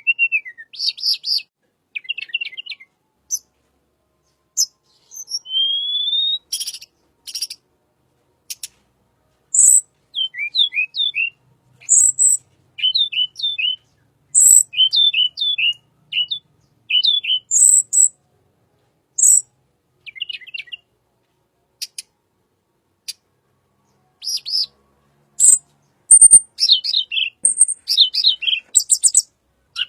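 Tledekan bird calling in short, high phrases: sharp chirps, a single rising whistle about five seconds in, and runs of quick downward-slurred notes in the middle, with silent pauses between phrases.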